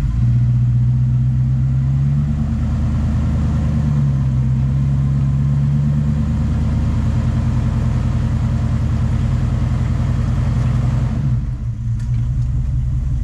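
Off-road truck engine working under load as the truck climbs a washed-out trail section. It revs up twice in the first half, holds steady, then eases off near the end.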